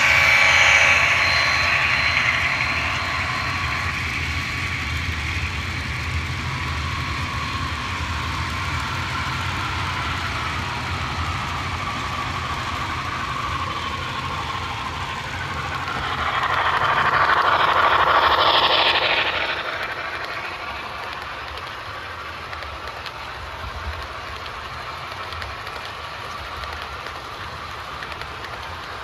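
HO scale model trains running on the layout, a steady rolling hum with some clickety-clack. The sound swells and falls away again about two-thirds of the way through as a train passes close.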